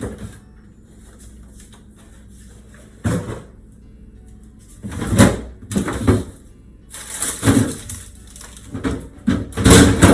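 Containers and bottles being handled and set down while a refrigerator is emptied: several irregular bursts of clatter and rustle, loudest about halfway through and near the end, over faint background music.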